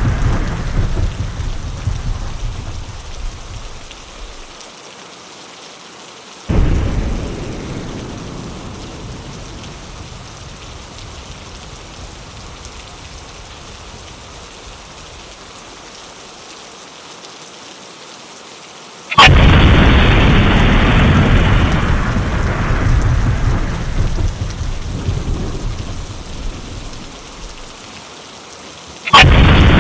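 Steady rain with rolling thunder: a rumble breaks in suddenly about six seconds in and dies away, a louder and longer one begins about two-thirds of the way through and rolls on for several seconds, and another breaks just before the end.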